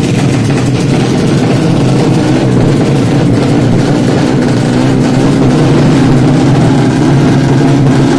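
Tuned Yamaha Jupiter underbone motorcycle engine, built to 155 spec, running loud and steady at high revs, rising a little in loudness near the end.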